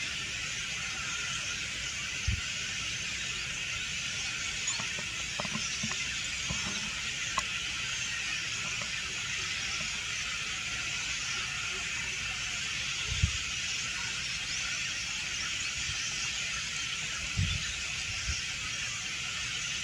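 Dense, steady chorus of high-pitched squealing calls, with a few brief low knocks of microphone handling.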